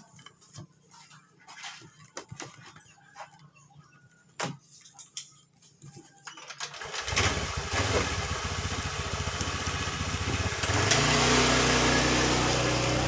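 A few light clicks and knocks, then about seven seconds in an engine starts and runs steadily, getting louder a few seconds later.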